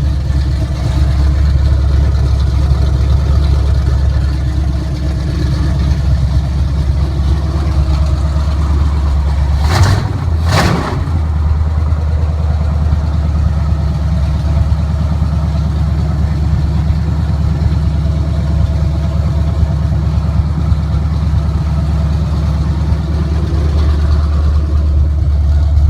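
454 big-block V8 running through open headers, idling steadily and loudly. About ten seconds in come two sharp cracks close together and a short dip in the engine note before it settles back to the same steady idle.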